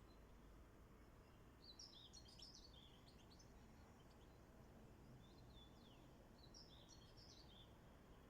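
Birds singing faintly: two short twittering song phrases, about two seconds in and again near seven seconds, with a few thin falling whistles between them, over a low steady background rumble.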